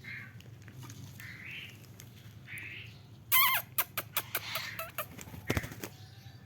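Kingfisher calling: a few soft chirps, then a loud, harsh call about three seconds in. A quick run of sharp clicks and a knock follows.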